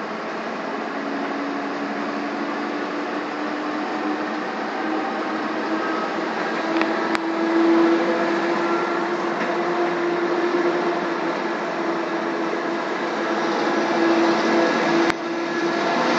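Running noise heard from inside a moving diesel-hauled commuter train carriage: a steady rumble of wheels on rails with a hum that rises in pitch over the first half and then holds. A sharp click comes about seven seconds in and another near the end.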